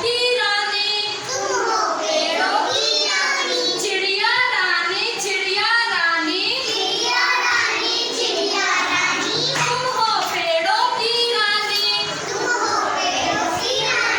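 A group of young children singing a Hindi children's rhyme together.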